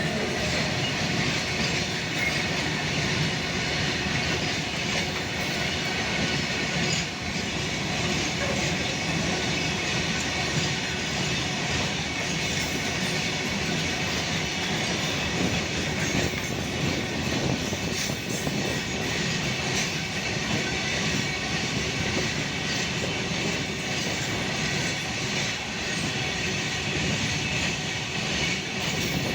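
Long container freight train hauled by a WAG-9 electric locomotive running past, its wagons rolling on the rails in a steady, unbroken rumble.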